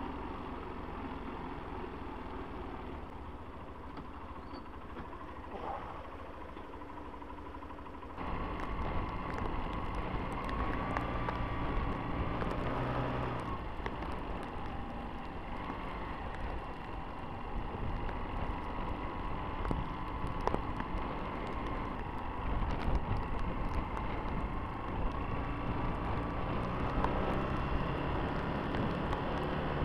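Honda CBF125 motorcycle's single-cylinder engine running while riding, its pitch wavering up and down a little. The sound gets suddenly louder about eight seconds in.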